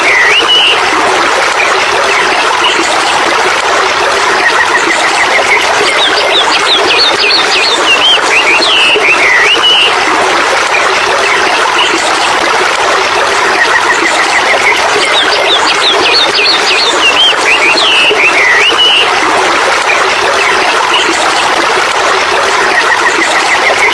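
Birds chirping and calling over a steady rush of running water, a nature soundscape whose chirps recur about every nine seconds.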